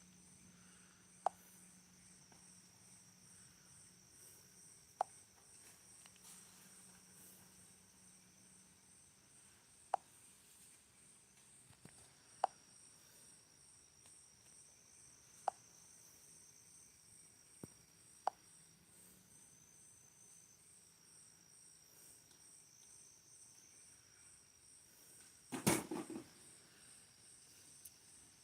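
Crickets trilling steadily, with a bonfire giving scattered sharp pops every few seconds and a louder burst of crackling about 26 seconds in.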